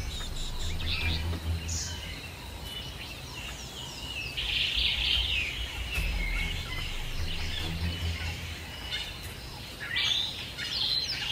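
Birds chirping and calling in the bush, with short high trills coming and going, over a low steady rumble.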